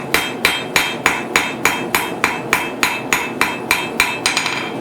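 Blacksmith's hammer striking hot steel bar on an anvil in a steady rhythm of about three blows a second, each with a short metallic ring, rounding off the edges of the bar. Near the end come a few quicker, lighter blows before the hammering stops.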